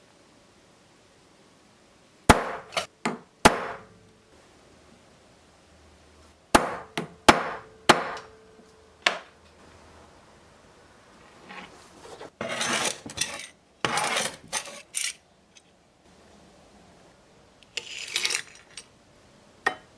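Sharp metal taps and clinks of jeweller's tools working a sterling silver chain, in small groups of strikes with one ringing briefly, then rougher scraping and handling sounds in the second half.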